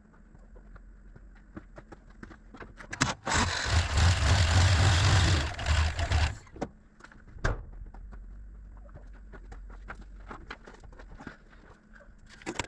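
1978 Jeep J20's AMC V8 engine starting: a loud stretch of about three seconds as it catches and runs up, then it settles into a steady low idle. The exhaust runs without the leak, after new manifold gaskets and a repaired tailpipe flange.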